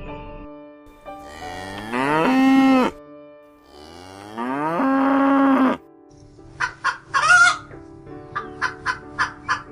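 A cow mooing twice, two long calls that rise in pitch and then hold. These are followed by a quick series of short, sharp clucking calls from fowl.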